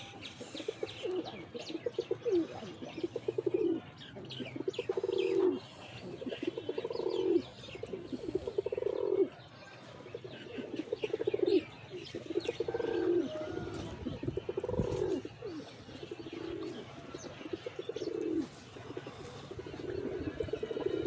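Domestic pigeons cooing over and over, one coo phrase following another every second or two, with short higher-pitched chirps mixed in.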